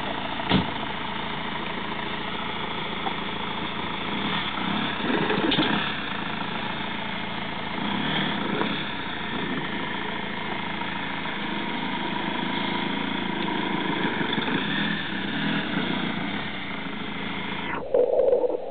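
Car engine running at idle while the car creeps slowly along a rough forest track, with a sharp click about half a second in.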